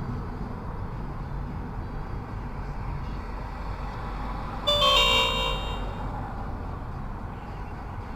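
Steady road and engine rumble inside a moving car's cabin. About five seconds in, a loud electronic chime of a few stepped, slightly falling tones sounds for about a second.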